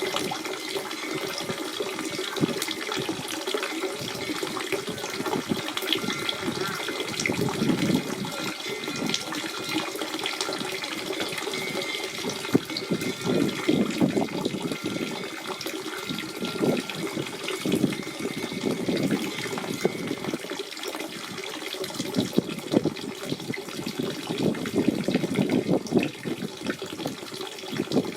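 Natural spring water running steadily, a continuous gurgling flow that swells and eases in waves.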